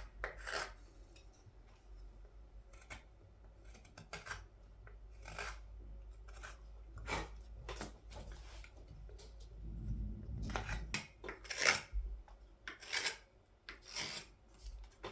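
A carving blade slicing shavings from green (wet) wood, with irregular short cutting strokes that follow the grain. The loudest strokes come about three quarters of the way through.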